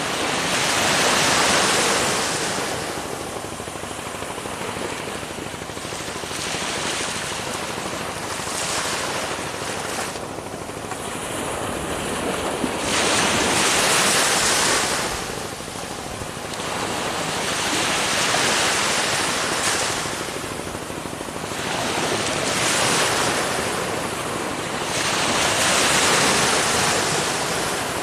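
Ocean waves breaking on a shore, a rushing wash that swells and fades every few seconds as each wave comes in and draws back.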